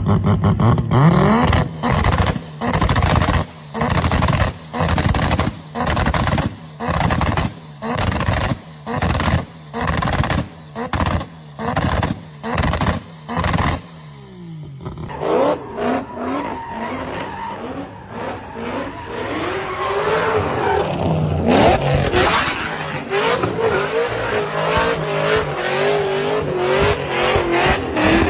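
Car engine revved in a steady series of throttle blips, a bit more than one a second, then, about halfway through, a continuous tire squeal with a wavering pitch as the car drifts, its engine running under it.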